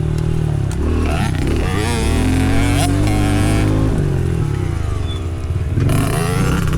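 Small dirt bike engine revving up and down as it is ridden, its pitch rising and falling repeatedly.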